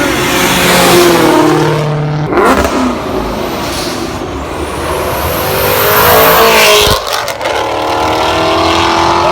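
Mustang engines revving and accelerating hard, the pitch climbing and dropping, with abrupt changes twice where one car's run gives way to another's.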